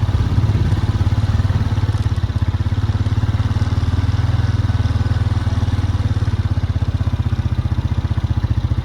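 A vehicle's engine idling steadily with an even low pulse.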